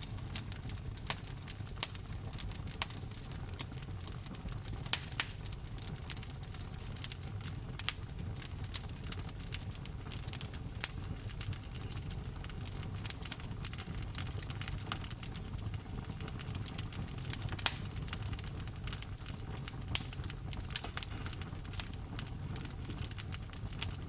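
Wood fire in a fireplace burning steadily, with a low rumble under constant irregular crackling and a few louder pops.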